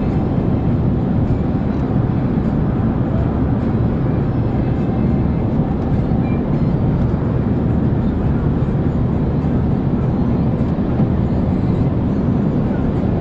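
Steady mix of engine, tyre and wind noise from a car driving at speed on a race track, heard from onboard.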